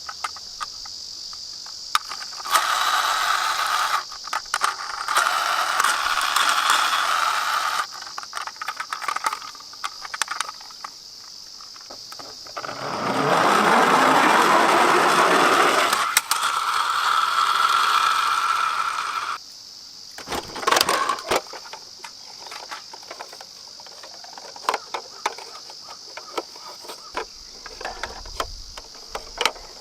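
Die-cast toy minicars rolling down a steep slope track, their small wheels making several long rolling runs, with clicking and clattering as the toys knock against each other and the track.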